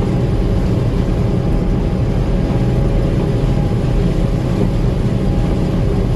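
Gleaner M2 combine running steadily while harvesting corn: a constant engine and machinery drone with a faint steady whine above it.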